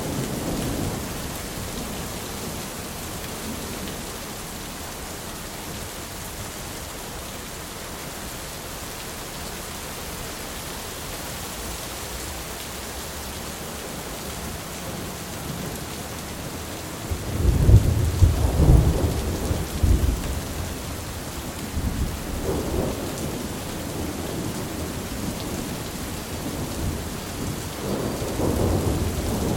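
Thunderstorm: steady heavy rain hiss with rolling thunder. A loud deep rumble of thunder swells about halfway through and rolls for a few seconds, followed by weaker rumbles, and another roll builds near the end.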